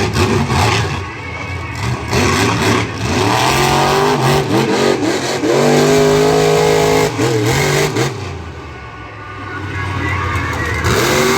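Monster truck engine revving hard through repeated throttle bursts. Its pitch climbs from about two seconds in and holds high for a few seconds, then drops off about eight seconds in and climbs again near the end.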